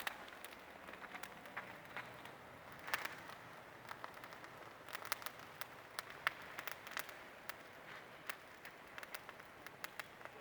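Wood campfire crackling, with irregular sharp pops and snaps over a faint hiss.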